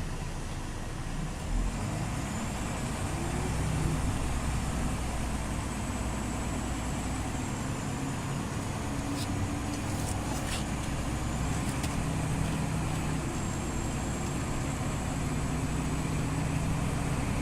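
Scania OmniLink CL94UB city bus running, its engine and road noise steady, with a thin high whine that rises about two seconds in and settles lower near the end. There is a thump about one and a half seconds in and a few rattling clicks around the middle.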